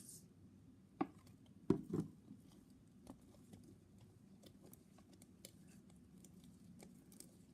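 Hands kneading a large batch of sticky slime: faint wet clicks and pops, with a few louder knocks between one and two seconds in. The slime is still partly sticking to the hands as the borax activator firms it up.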